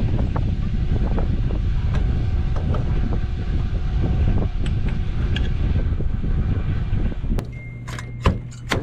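Loud steady rumble of a vehicle under way, with wind noise and light rattles, cutting off about seven seconds in to a quieter steady hum broken by a few sharp clicks.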